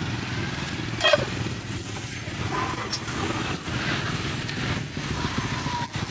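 Busy street-market ambience with motorbike engines running, with a short sharp sound about a second in.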